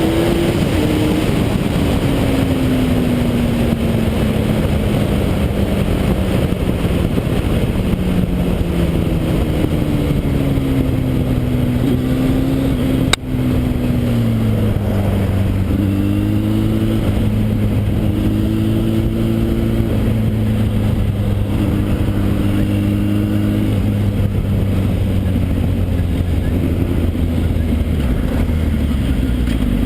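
Motorcycle riding, heard from the rider's camera: steady wind rush over an engine whose pitch falls slowly for the first dozen seconds and then holds. There is one sharp click about thirteen seconds in.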